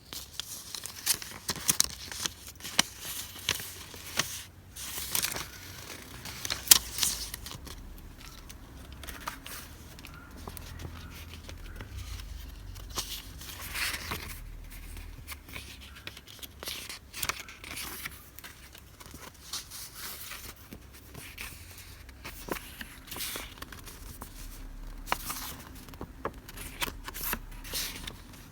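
Paper goods and their packaging being handled up close: rustling and crinkling with many sharp taps and snaps, the loudest a little under seven seconds in.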